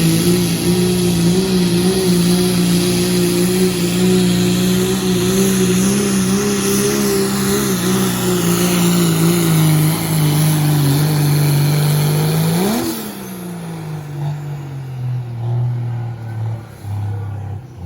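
Diesel pickup engine with a 2.6-inch smoothbore turbocharger held at full throttle under heavy pulling load, with a loud turbo hiss and its pitch sagging slightly as the load builds. About 13 seconds in the throttle comes off with a short blip and the engine winds down to a much quieter idle.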